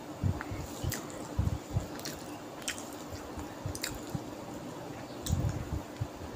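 Close-up eating sounds: wet chewing and mouth noises with several sharp lip-smacking clicks, and soft squishes of rice being mixed and eaten by hand. A faint steady hum runs underneath.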